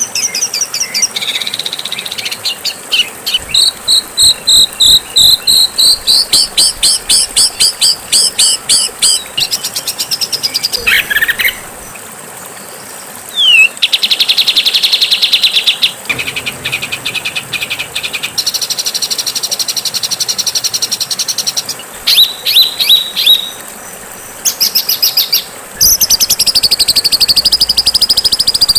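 Songbird song from a masteran compilation: harsh, fast chattering and trilled phrases of several birds, spliced back to back with abrupt cuts every few seconds.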